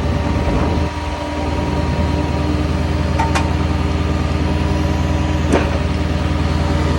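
Heavy tow truck's engine idling steadily in park. Two short sharp clicks sound over it, about three and five and a half seconds in.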